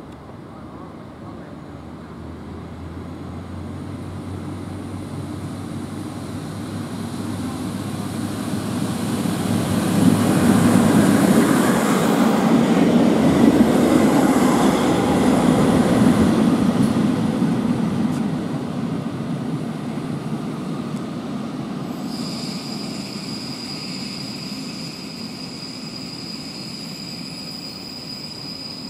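A train passing through the station, growing louder to a peak about halfway and then fading away. About two thirds of the way in, a steady high-pitched wheel squeal starts suddenly and holds.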